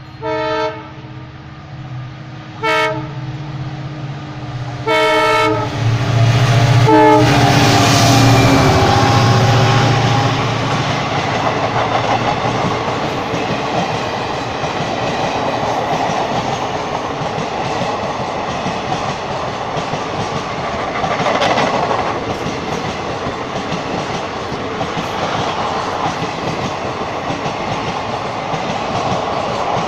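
An Indian Railways diesel-hauled express sounds its multi-tone horn four times as it approaches, two short blasts, a longer one, then a last one that drops in pitch as the locomotive passes. The diesel engine rumbles loudest as it goes by, followed by the steady clatter of ICF passenger coaches rolling past at speed.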